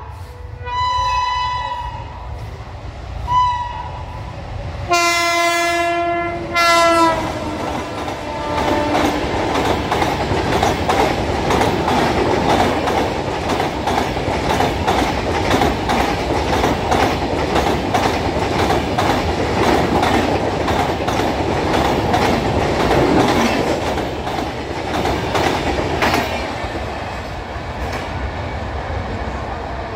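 Indian Railways express train behind an electric locomotive, approaching and passing at speed. Four horn blasts come in the first seven seconds, the last one long and dropping in pitch as the locomotive goes by. Then the coaches follow with a steady rumble and a rapid clickety-clack of wheels over rail joints, easing off near the end.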